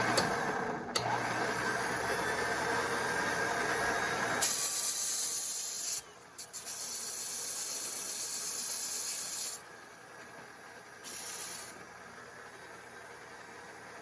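Pressurised gas hissing out in bursts: a rougher rush with a low hum for the first four seconds or so, then two long high hisses and a short one near the end.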